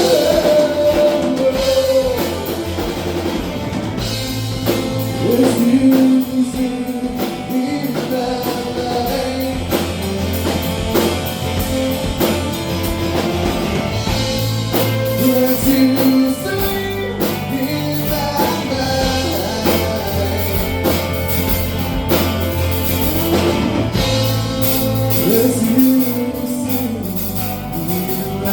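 Rock band playing live: drum kit and guitar with a singer's voice over a steady low bass line.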